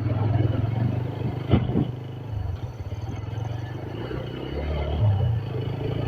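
Motorcycle engine running steadily under way, with a brief knock about a second and a half in.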